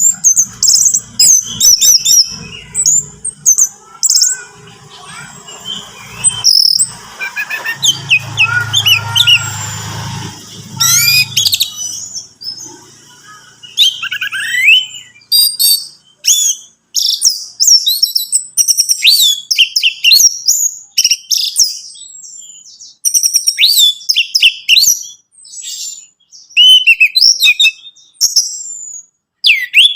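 Orange-headed thrush singing, a fast run of varied whistled and chirping phrases, loud and sharply broken off with short pauses between bursts.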